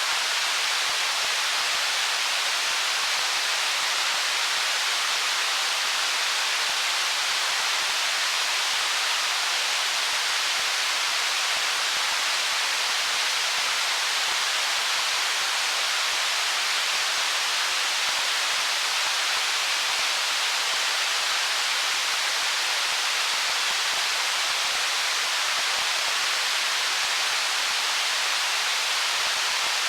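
Stream water running over stones: a steady, even rushing hiss.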